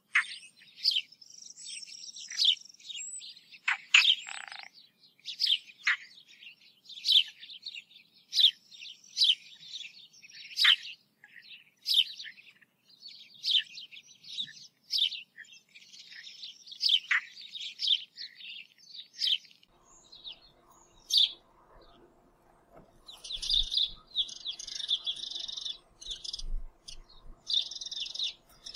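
A small bird chirping: a long run of short, high chirps about twice a second, turning into longer stretches of busy warbling about three-quarters of the way through.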